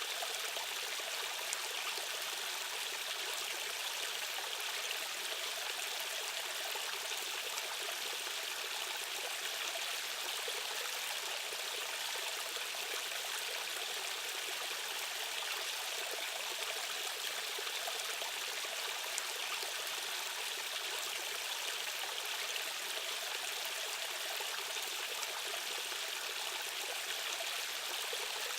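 Rushing stream water running steadily: a continuous, even hiss of current with little deep rumble.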